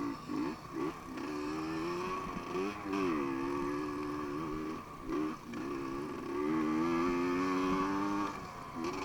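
Enduro motorcycle engine running, its pitch rising and falling with the throttle and dropping off briefly a couple of times.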